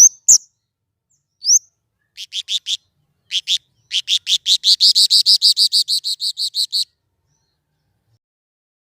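Small songbird calling: a few sharp, quick whistled notes and a single rising note, then a fast run of evenly repeated high chirps, about four or five a second, that stops about seven seconds in.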